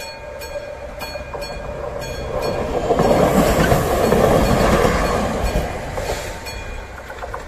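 Level-crossing bell of an AŽD 71 crossing ringing in regular strokes while a Vogtlandbahn diesel railcar passes over the crossing. The railcar's wheels and engine swell to a loud rush about halfway through, then fade, and the bell strokes come through again near the end.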